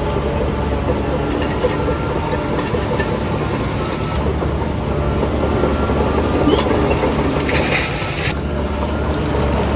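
Heavy diesel earthmoving machinery working: a steady engine drone under continuous rumbling and clattering, with a short hiss about seven and a half seconds in.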